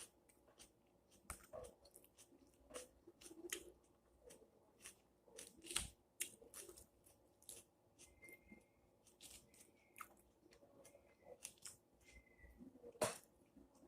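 Close-up chewing of a chicken salad, with many short sharp mouth clicks and crunches; the loudest come about six seconds in and near the end.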